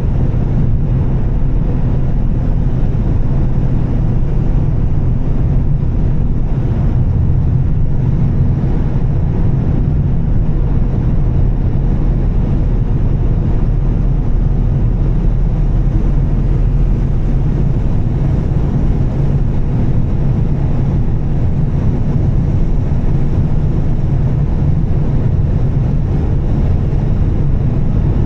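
Volvo S60 T6's turbocharged straight-six with a Heico aftermarket exhaust, running steadily at an even cruising speed with a low, unchanging hum, mixed with tyre and road noise on a wet road.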